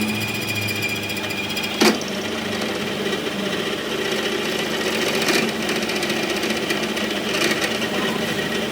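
Metalworking machinery running steadily in a workshop, with a sharp knock about two seconds in.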